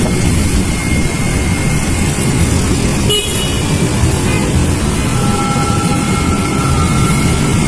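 Loud steady low rumble of road traffic and wind outdoors, with a vehicle horn sounding for about two seconds, starting about five seconds in.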